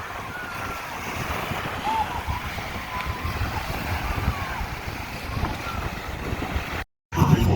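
Wind buffeting the microphone over beach surf, with faint distant voices calling now and then. Near the end the sound cuts out for a moment and music starts.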